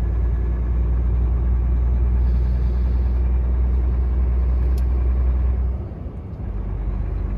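Volvo truck's diesel engine running under load as the truck moves off, a deep steady rumble. About six seconds in it drops off briefly and picks up again at a lower note.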